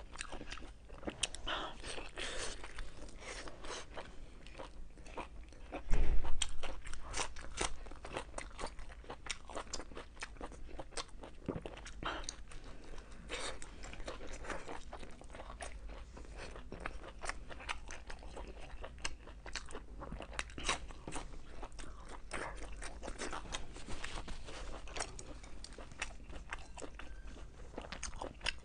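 A person chewing and biting braised meat: a dense run of short crisp clicks and crunches, with one sudden louder knock about six seconds in.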